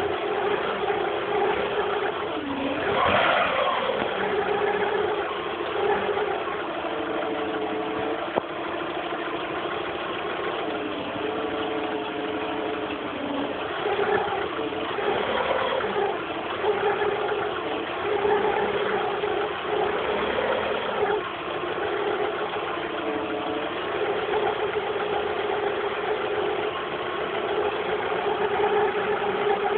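The 1.0-litre petrol engine of a VW Polo 6N2 running, making a noise the owner calls weird. A strong steady tone rises and falls in pitch several times as the engine speed changes, with one sharp click about eight seconds in.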